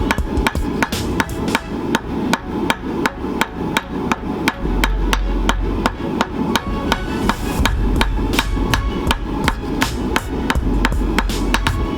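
Hammer blows on steel over an anvil, forging a flint striker from a piece of shrapnel: a steady run of about three to four strikes a second, each with a short metallic ring.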